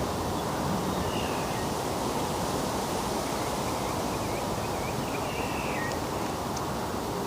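Steady rushing outdoor background noise, with faint high bird chirps through the middle.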